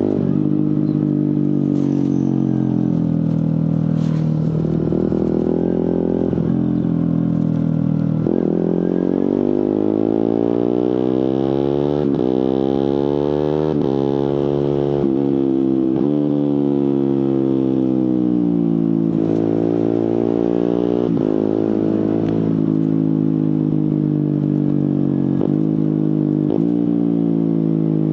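Suzuki GSX-R150's single-cylinder engine through an aftermarket Prospeed exhaust, riding: the engine note climbs steadily for several seconds as it accelerates, eases off, then gives several short rev blips that fall away as it slows and shifts down with the autoblipper.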